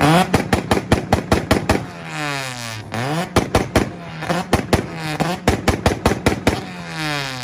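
Car engine held on a two-step launch limiter, firing rapid cracks and pops in three spells. Between the spells the revs fall away as the throttle is let off.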